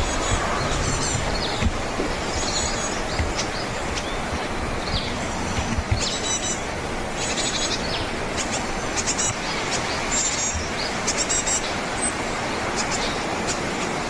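Small birds calling with many short, high chirps at irregular intervals over a steady background hiss.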